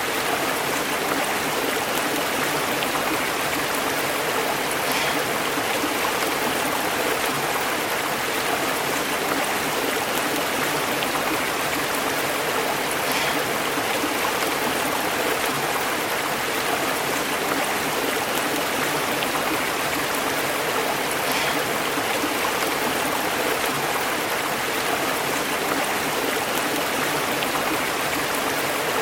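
A stream running steadily over rocks, a continuous bubbling and burbling rush of water.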